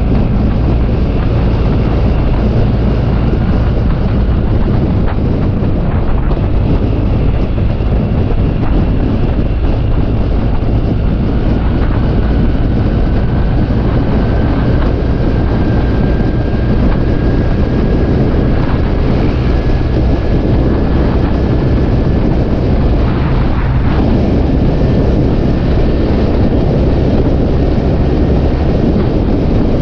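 Scooter engine running steadily while riding, with wind rushing over the microphone. A faint whine slowly rises in pitch through the middle.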